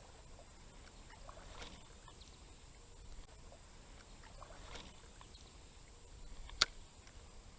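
Faint creek-side water sounds: soft swishes of water about two and five seconds in, then a single sharp click near the end.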